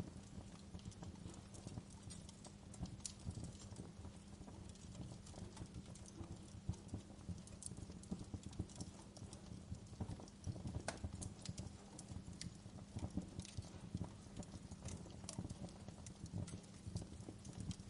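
Wood fire crackling in a fireplace: a steady low rumble of the flames with irregular small pops and snaps throughout.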